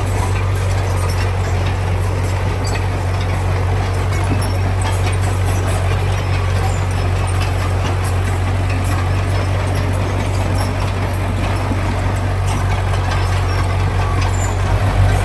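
Heavy diesel construction machinery running steadily with a deep, even drone, with scattered light clanks over it.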